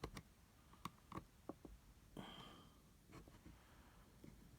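Near silence with a few faint, scattered clicks and taps of the plastic charger case being handled, and a soft breath about two seconds in.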